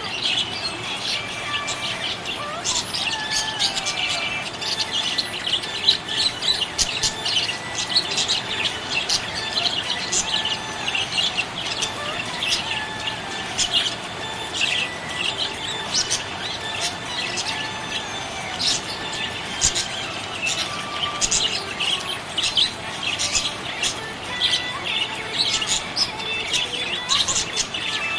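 Budgerigars chirping without pause, many quick high chirps overlapping, with some sliding warbled notes underneath.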